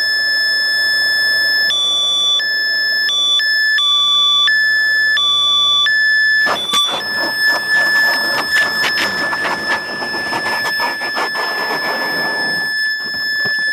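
Aircraft cockpit warning alarm sounding a steady high tone, switching several times to a lower interrupted tone, then carrying on over loud rattling and shaking from about seven seconds in as the plane comes down in a rough landing.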